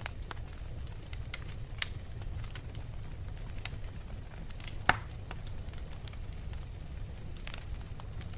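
Wood fire burning in a fireplace: a steady low rumble of the flames with scattered crackles and pops from the logs, two sharper pops about two and five seconds in.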